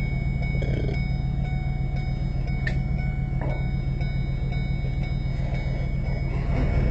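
Tow truck engine running steadily with a low rumble, growing a little louder near the end, with a few faint clicks; the truck runs loud because its muffler needs fixing.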